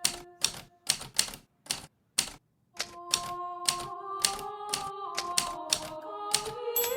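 Hermes Baby portable manual typewriter being typed on: single sharp keystrokes at an unhurried, uneven pace of about two a second.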